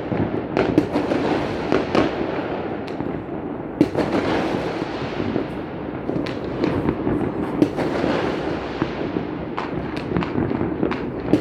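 Fireworks going off all around in many scattered displays: a dense, continuous crackle broken by frequent sharp bangs from individual shells.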